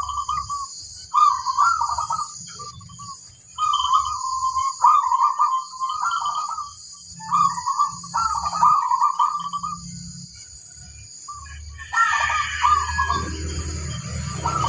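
Zebra dove (perkutut) cooing: repeated phrases of quick, rolling coos, each about a second long with short pauses between, over a steady high-pitched buzz.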